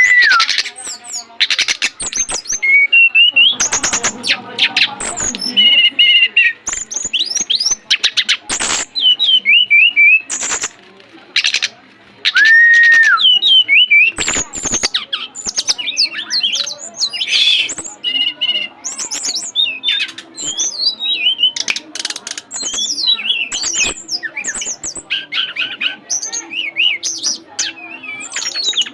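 A caged songbird singing hard: a fast, varied stream of high chirps, trills and short whistled glides, mixed with many sharp clicks.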